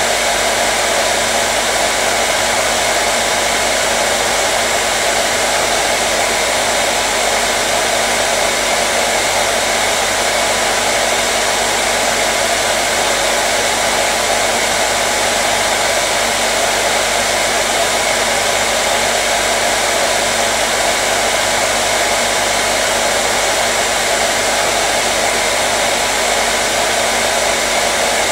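Hair dryer running steadily, a constant airflow rush with a faint motor hum, played as continuous white noise to soothe a baby.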